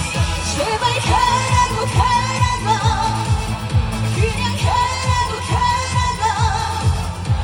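Trot song performed live: a female singer's voice, with vibrato on held notes, over a backing track with a steady beat of about two kick-drum strokes a second.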